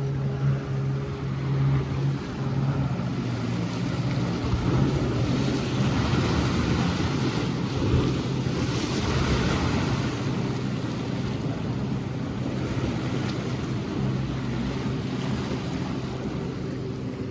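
Wind buffeting the microphone while riding a bike, under a steady low hum; the rush swells in the middle and eases toward the end.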